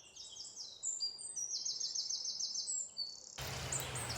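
Songbird singing: high chirps, then a rapid trill of seven or eight quick repeated falling notes. It cuts off suddenly a little past three seconds, giving way to a steady outdoor background noise with a low hum.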